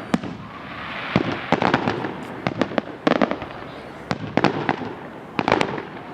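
Aerial fireworks going off: a dozen or so sharp bangs at irregular intervals, several in quick clusters of two or three.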